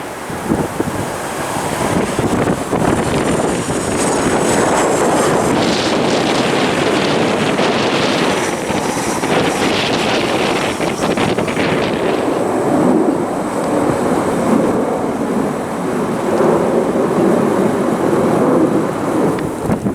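Jet airliner's engines roaring as it passes close, with a high engine whine that falls slightly in pitch a few seconds in, mixed with heavy wind buffeting on the microphone.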